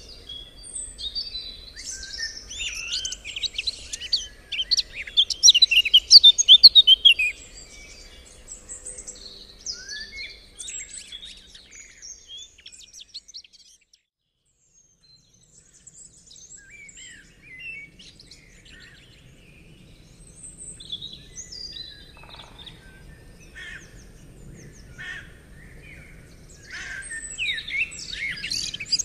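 Several songbirds singing and chirping, a dense tangle of quick trills and chirps that is loudest in the first seven seconds. About halfway through the sound drops out briefly, then scattered chirps return and build into busy song again near the end.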